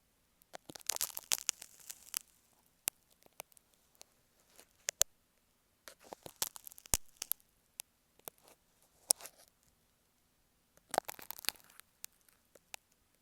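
Marking pins scraping and tapping on an earphone microphone, very close up. Scratchy rustling bursts about a second long come three times, with sharp single clicks between them.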